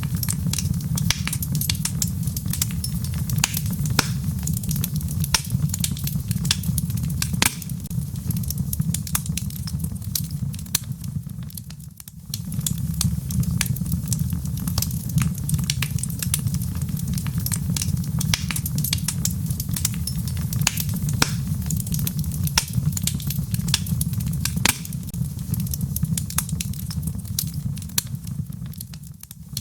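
Wood fire crackling in a fireplace: frequent sharp pops and snaps over a steady low rumble of flame. The sound dips briefly about twelve seconds in and again near the end.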